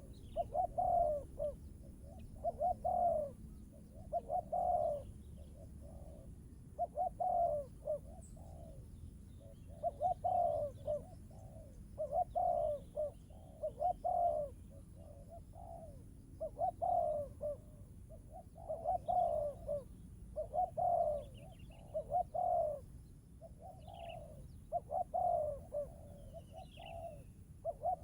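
Dove cooing in short phrases of a few notes, repeated about every two seconds, with faint high chirps of small birds now and then.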